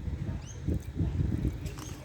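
Uneven low rumble of wind on the microphone, with two faint, short high chirps from a bird, about half a second in and near the end.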